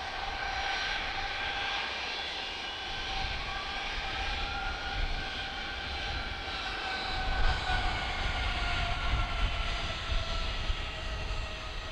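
Jet airliner engines whining steadily, the whine sinking a little later on while a deeper rumble builds from about seven seconds in: an American Airlines A321neo landing.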